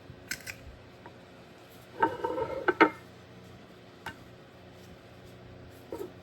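Hard metal objects clinking and clattering on a work surface: a few light clicks, a busy clatter with brief ringing about two seconds in, then two single knocks.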